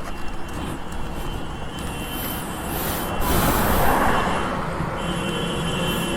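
KTM Duke 790 motorcycle under way, heard mainly as wind rush and road noise on the microphone, swelling to its loudest about three to four seconds in.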